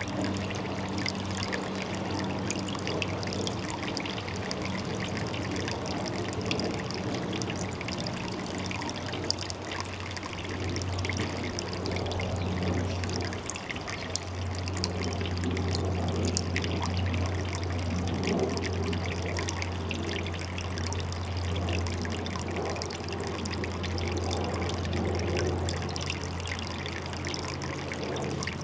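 Water pouring and trickling steadily into a pond, with a steady low hum underneath.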